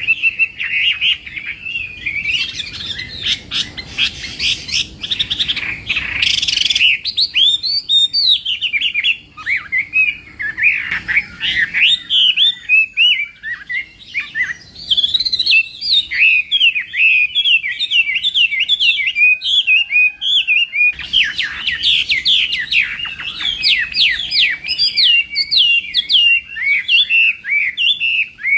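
Chinese hwamei singing a long, rapid, varied song of quick rising and falling whistled notes, with a sharp click about six seconds in.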